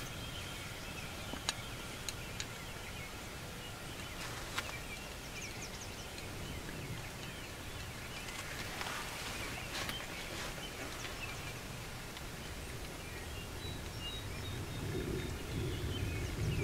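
Open-field morning ambience: songbirds chirping under a steady low rumble of wind, with a few small sharp clicks in the first few seconds. The rumble grows louder near the end.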